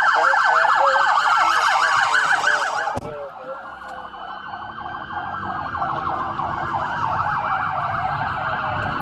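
Police car sirens: a fast yelp and a slow rising-and-falling wail sounding together. About three seconds in the sound cuts and drops quieter, and the sirens go on over low engine and road rumble.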